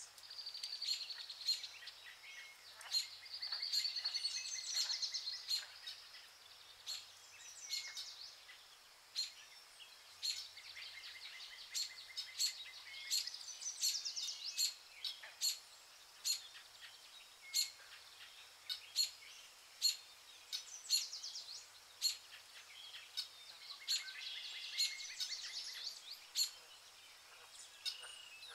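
Wild birds chirping and singing: short sharp chirps repeat about once or twice a second, and high trilling song phrases come and go, strongest a few seconds in and again near the end.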